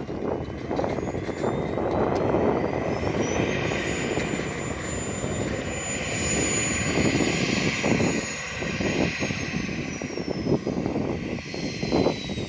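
Small jet engine of a Mehve-replica glider whining: the pitch rises over the first few seconds, holds high, then falls near the end. Heavy wind buffets the microphone throughout.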